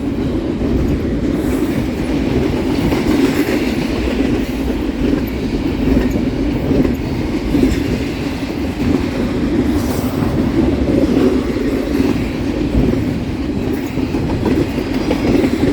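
Freight train cars rolling past close by: a steady, loud rumble of steel wheels on rail with clickety-clack from the rail joints.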